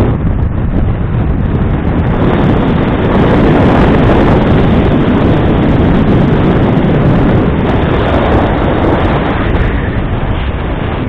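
Strong wind buffeting the microphone: a loud, steady rushing rumble that flutters in strength.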